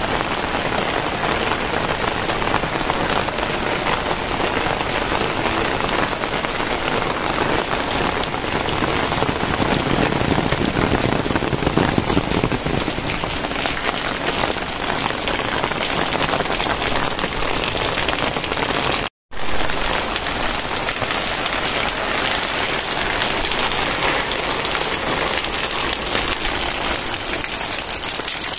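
Very heavy rain pouring down in a steady, dense hiss. The sound cuts out completely for a split second about two-thirds of the way through.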